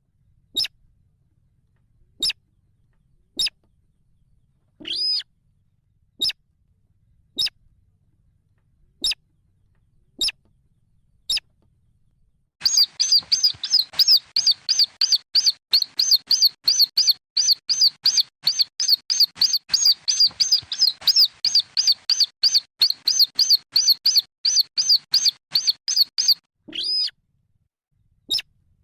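Slaty-breasted rail chicks peeping: single high peeps about once a second, then from about halfway a fast run of peeps at three or four a second, ending with one longer call.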